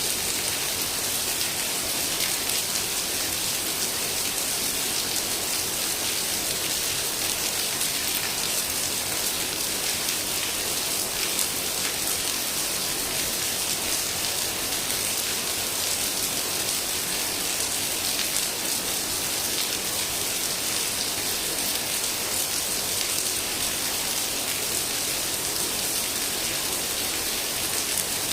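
Heavy rain falling steadily, a dense even hiss with fine drop patter on surfaces.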